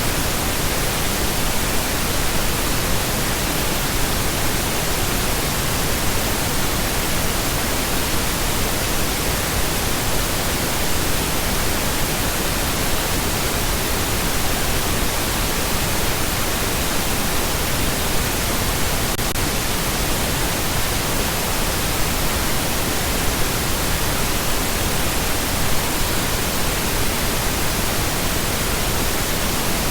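Steady pink noise: an even, unchanging hiss spread across all pitches, fuller in the low end than white noise.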